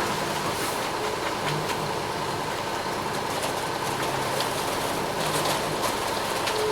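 Ready-mix concrete truck running with a steady rumbling noise and scattered small clicks and rattles, consistent with the mixer drum turning while concrete is delivered.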